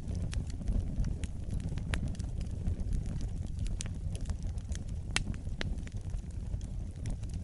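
Fireplace fire burning with a steady low rumble and frequent sharp, irregular crackles and pops.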